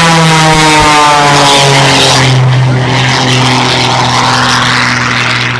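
Propeller-driven aerobatic plane flying past, the drone of its engine dropping in pitch over the first two seconds as it goes by, then holding steady at the lower pitch.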